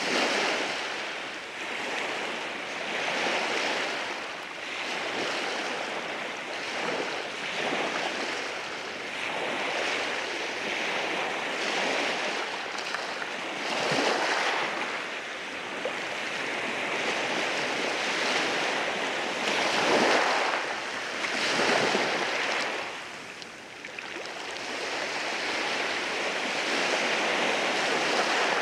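Ocean waves breaking and washing over rocks on the shore, a continuous rushing wash that swells and falls, with sharper crashes about 14 and 20 seconds in.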